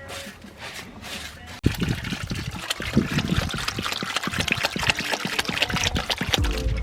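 Water pouring and splashing in a dense patter of small taps, starting suddenly about a second and a half in.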